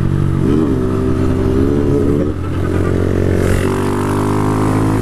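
Motorcycle engine running at road speed, with a steady note that dips briefly a little past two seconds in and rises as the throttle opens about three and a half seconds in.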